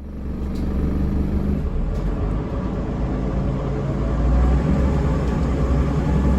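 Scania DC9 five-cylinder diesel engine of a 2002 Scania L94UB bus running, a steady low rumble whose note shifts a couple of times.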